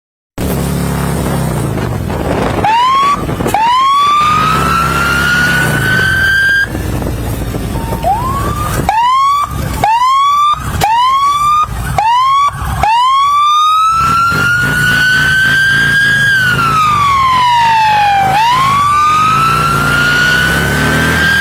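Police siren sounding with an engine running underneath: two rising wails, then a run of five short, quick yelps, then a long wail that climbs, sinks and climbs again.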